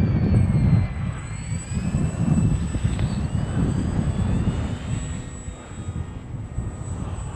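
Wind buffeting the microphone, the loudest sound, with the faint whine of a flying RC airplane's motor and propeller drifting up and down in pitch as it passes.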